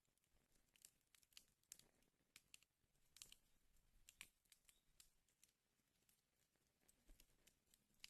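Wood fire burning in a fireplace, with faint, irregular crackles and pops, a little thicker about three and four seconds in.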